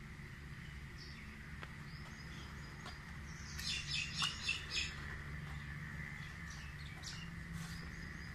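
A bird chirping outdoors: a quick run of about five or six short, high chirps about three and a half seconds in, with a few fainter single chirps either side, over a steady low background hum.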